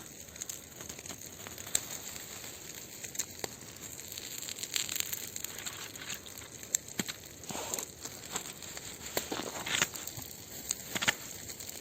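Bonfire of branches burning, crackling with irregular sharp pops over a steady hiss.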